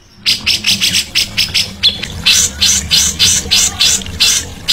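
Songbird calling: a rapid run of short, harsh chirps, about five a second, starting after a brief silence, with a short break near the middle.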